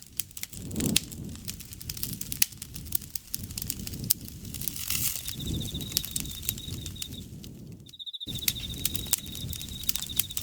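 Campfire crackling and popping, many sharp snaps over the low rush of the flames. About halfway in an insect starts a steady high trill that keeps going, broken only by a brief cut-out of all sound about eight seconds in.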